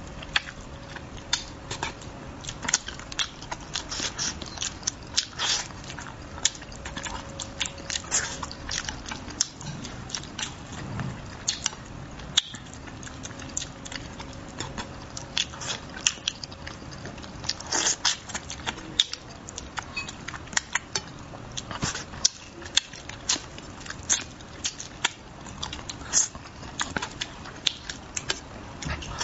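Close-miked eating: a man chewing mouthfuls of spicy braised fish, with many irregular sharp mouth clicks and smacks.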